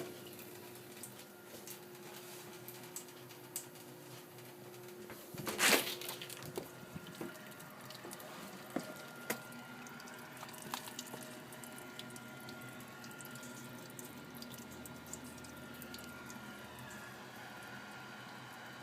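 Water running and dripping steadily, with one louder rush about six seconds in. It is plausibly water being let out of the central heating system to bring down the too-high pressure of a Worcester Bosch 24i Junior combi boiler.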